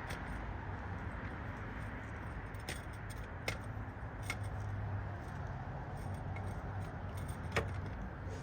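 Scattered light metal clicks and clinks from handling a car jack and tools, over a steady low hum.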